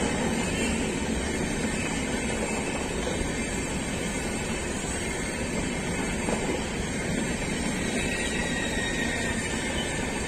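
Express passenger train of LHB coaches running at high speed, a steady rush and rumble of wheels on rail, with a few faint clicks near the end.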